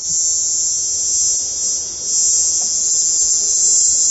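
Recording of cicada song: a loud, steady, high-pitched buzz.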